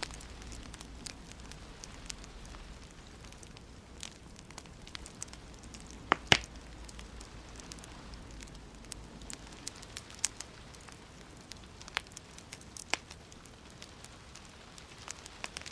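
Wood fire in a fireplace crackling, with scattered sharp pops over a soft steady hiss; the loudest pops come about six seconds in.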